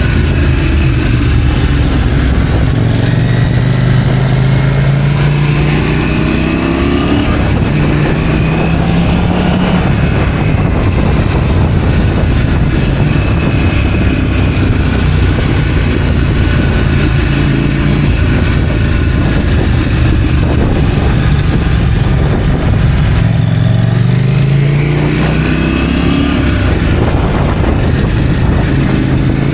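KTM 790 Duke's parallel-twin engine running through an IXRACE aftermarket exhaust under way. The revs climb in several rising sweeps through the gears early on and again near the end, with steadier running in between.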